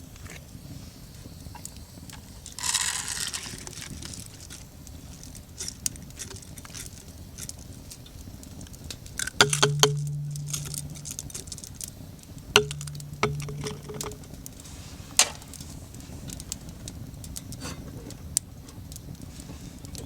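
Clicks and clinks of metal camp cookware and utensils being handled, with a brief hiss about three seconds in and a low hum twice for about a second each.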